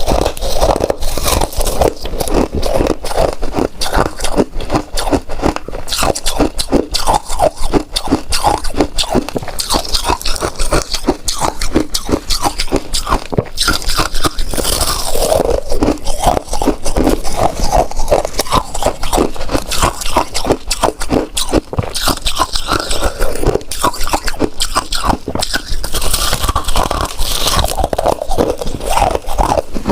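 Ice being bitten and chewed: loud, continuous crunching in rapid, irregular crunches with no pause.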